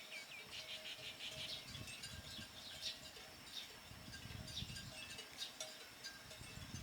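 Small birds chirping, with a quick trill near the start and scattered high calls after it, over faint intermittent low rumbling.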